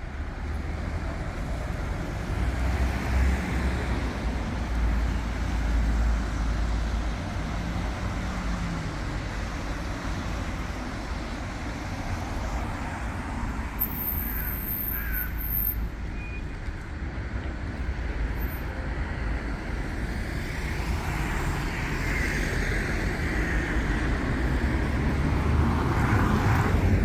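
City street ambience: steady traffic noise with a continuous low rumble.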